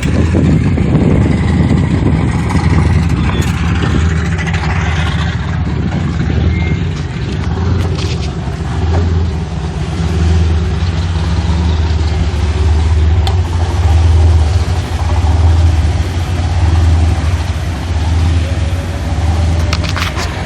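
An engine running steadily at low speed, a deep hum that throbs about once a second, with a few brief clicks near the end.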